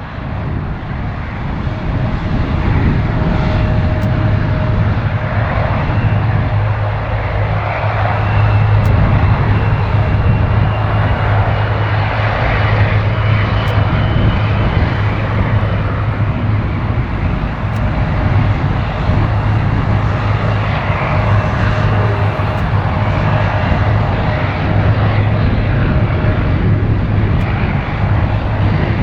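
Boeing 777-300ER's jet engines running, a steady loud rush with a constant low hum, swelling over the first couple of seconds and then holding level.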